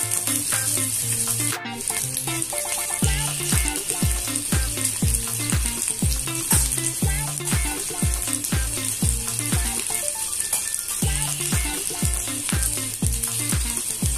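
Potato sticks and onion sizzling in hot oil in a frying pan, a steady hiss, under background music with a steady drum beat that comes in about three seconds in.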